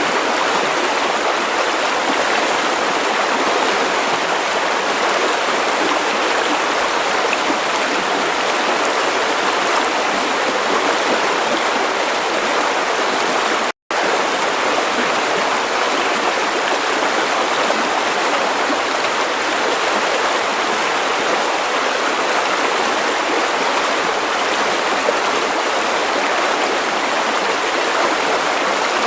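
River water running over stones: a steady rush of flowing water, with a momentary dropout to silence about halfway through.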